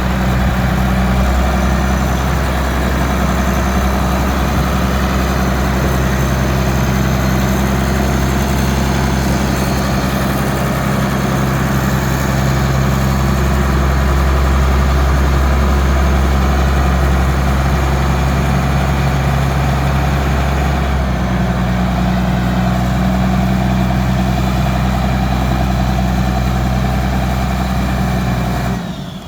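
Shantui motor grader's diesel engine running steadily at a low idle, during a test run after a newly fitted engine and gearbox. Its note shifts slightly a couple of times.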